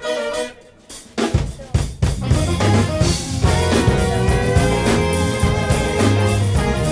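Live soul band playing. The band stops for a moment, then a few snare and bass-drum hits bring it back in, and the full band plays on with steady drums under sustained instrument notes.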